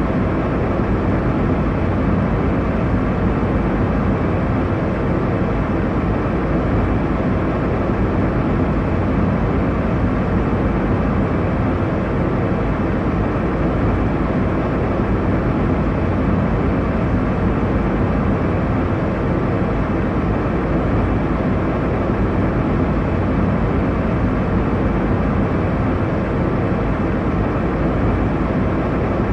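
Steady airliner cabin noise: an even low rumble and rush of jet engines and airflow, without change.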